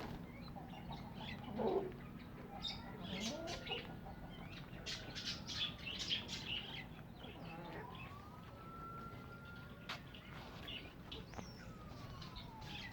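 Small birds chirping in many short, high bursts. Behind them a faint, thin tone slowly rises, holds and falls, twice over.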